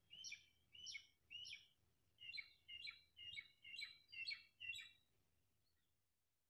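A small bird singing faintly: a series of about nine short chirps, roughly two a second, the first three higher than the rest, stopping about five seconds in.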